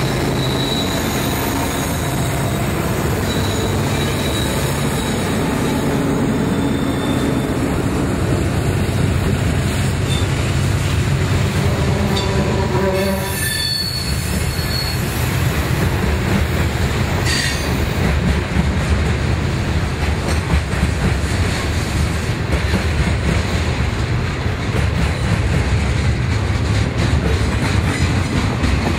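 A freight train passing close by. Its diesel locomotives run past first with a steady engine drone. From about halfway through, the freight cars follow with a continuous rumble and clatter of steel wheels on the rails.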